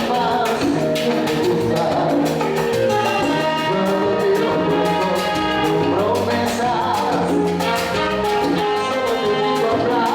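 A live salsa orchestra playing a romantic salsa, with a brass section of trumpets over steady percussion.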